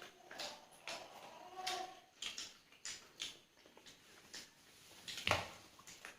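Fried chicken being bitten and chewed: scattered small crunches and mouth clicks, with one louder knock about five seconds in.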